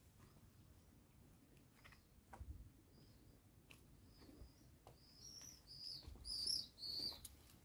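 A small bird chirping: faint high chirps at first, then a quick run of louder, short high chirps in the second half.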